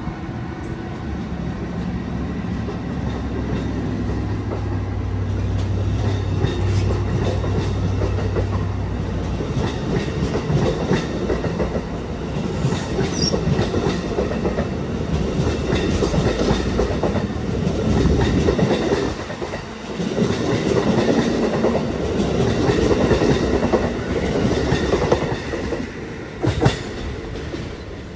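Train running past on the tracks, wheels clacking over the rail joints, getting louder after the first few seconds. A low steady hum underlies the first part.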